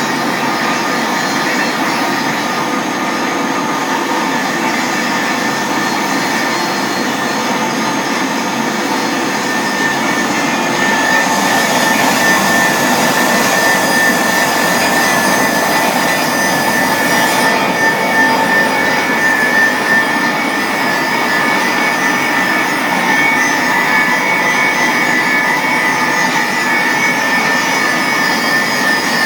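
RT 50-110 pipe rust-cleaning machine running, a loud steady mechanical whine with a hiss. The hiss turns harsher and brighter for about six seconds partway through.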